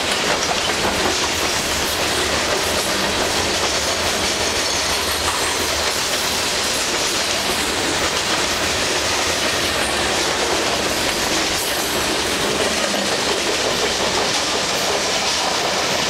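Covered hopper cars of a long Canadian Pacific freight train rolling past close by, a steady loud noise of steel wheels on rail.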